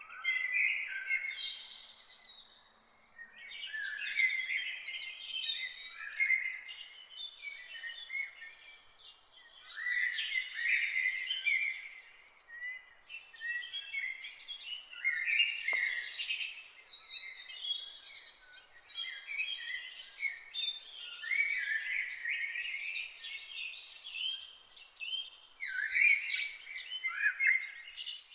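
Several wild birds singing and chirping at once in a morning chorus, overlapping phrases coming one after another, over a faint background hiss.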